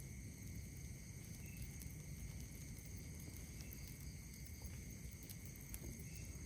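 Night insects trilling in a steady, high-pitched chorus, with a few faint crackles and pops from a wood campfire and a low rumble underneath.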